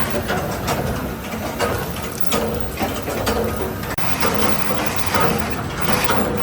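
Workshop machinery running with a steady hum, broken by irregular knocks and clicks of metal being worked.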